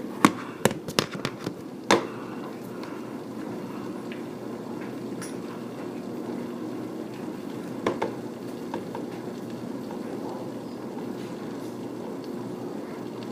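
Heavy rain falling steadily in a thunderstorm, with a run of sharp clicks and taps in the first two seconds and another pair around eight seconds in.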